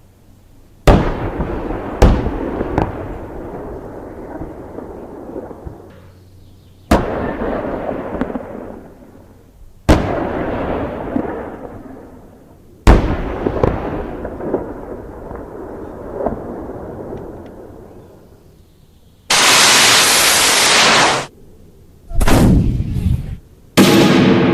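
Heavy military gunshot sound effects: five shots, each followed by a long rolling echo that dies away over a few seconds. Near the end, about two seconds of loud steady rushing noise that starts and cuts off sharply, then a shorter burst of the same.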